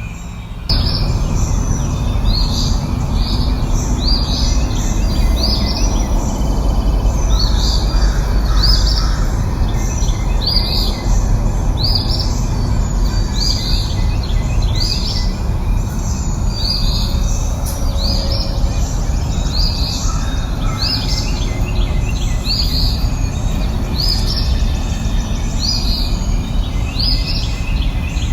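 A songbird repeating a short, high chirp roughly once a second, over a steady low background noise. The whole sound steps up in level less than a second in.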